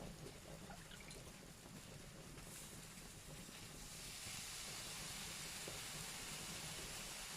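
Wood fire in a fireplace crackling with a few faint pops, then a steady hiss that comes up about four seconds in and holds.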